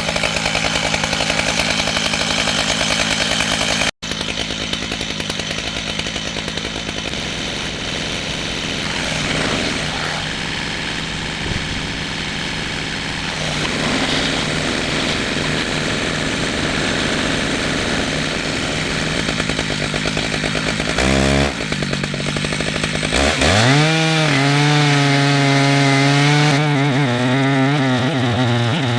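Two-stroke chainsaw running hard, ripping a red oak log lengthwise on a chainsaw mill. Near the end the engine note rises and then holds a steady pitch.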